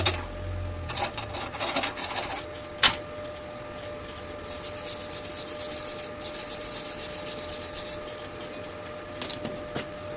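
Hand scraping and rubbing on metal in irregular strokes, with one sharp click about three seconds in and a steadier hiss from about four to eight seconds in.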